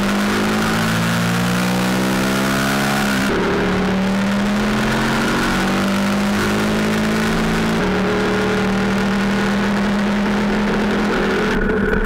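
Motorcycle engine pulling under acceleration, its pitch rising slowly and dropping at an upshift about three seconds in and again near eight seconds.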